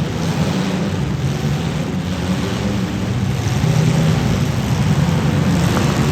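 Demolition derby car engines running loud and steady, a low rumble over a wash of noise.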